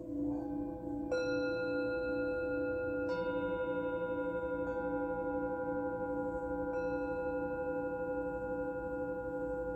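Singing bowls struck one after another, about every two seconds, each strike adding a new ringing tone over the ones still sounding; the overlapping tones hold steady with a slow pulsing waver.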